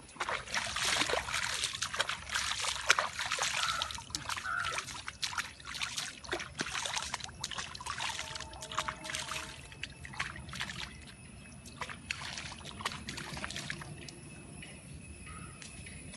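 Wood fire crackling, with many sharp pops and snaps, dense for the first ten seconds or so and then thinning out.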